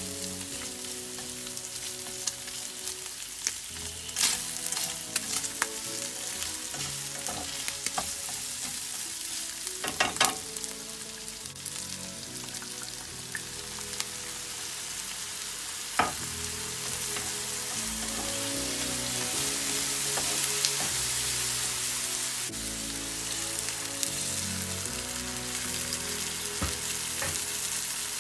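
Pork ribs, onion and garlic sizzling in hot oil in a frying pan, stirred with a spatula that clicks against the pan a few times. The sizzle grows louder about two-thirds of the way through.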